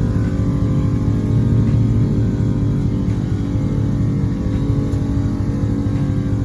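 Pickup truck engine running steadily with a rough low rumble.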